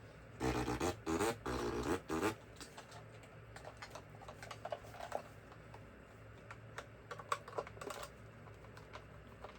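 Scattered light clicks and taps of a small screwdriver set's parts being handled, after a louder two-second stretch of sound just after the start.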